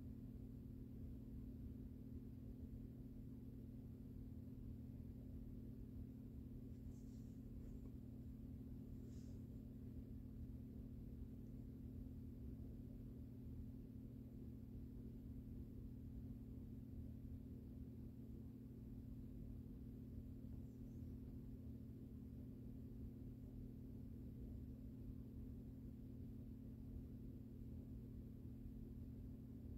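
Harbor Breeze Wheatland ceiling fan running, its motor giving a faint, steady hum.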